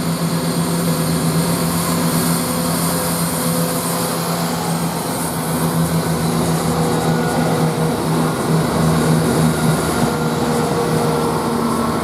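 CrossCountry Class 170 Turbostar diesel multiple unit pulling away from the platform, its underfloor diesel engines running with a loud, steady drone. The engine note changes in the second half as the train gets under way.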